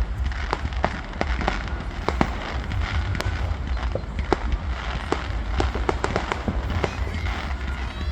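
Fireworks going off: many sharp bangs and crackles in quick, irregular succession, several a second, over a steady low rumble.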